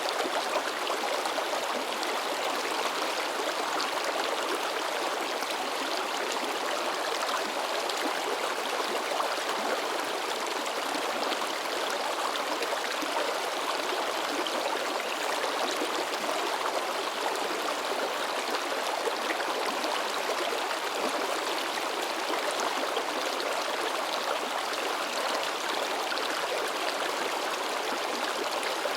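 A shallow river babbling and splashing over rocks in a steady, unbroken rush of water.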